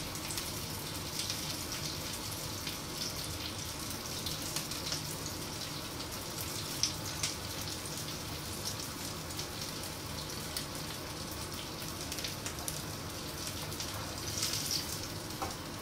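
Potato patties shallow-frying in oil in a pan, a steady sizzle with small crackles and the odd pop as they brown.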